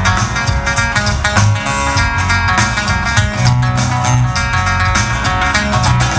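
Live country band playing an instrumental intro, with guitars, bass and drums and no singing.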